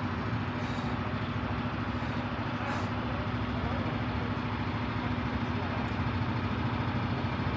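Steady street traffic, motor vehicle engines running, with a constant low hum under a even wash of road noise and a few faint light clicks.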